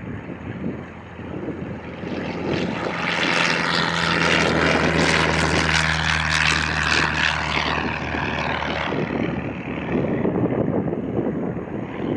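Propeller airplane flying past: its engine and propeller drone builds over the first few seconds, is loudest around the middle with a steady low hum, and fades away by about nine seconds. Wind buffets the microphone throughout.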